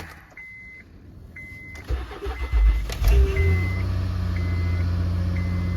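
Car engine cold-starting in freezing weather: a short crank about two seconds in, then it catches about three seconds in and settles into a steady idle. A dashboard warning chime beeps about once a second throughout.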